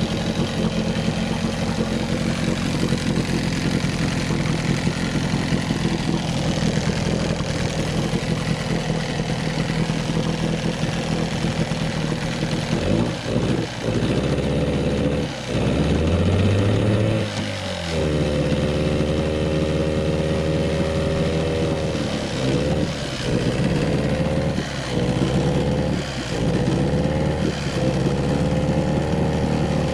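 Evinrude 9.9/15 hp two-stroke outboard running in a test drum: a steady idle at first, then from about halfway the throttle is opened and closed several times, the pitch rising and falling. It is warming up and not yet as smooth as wanted, with the carburettor still untuned.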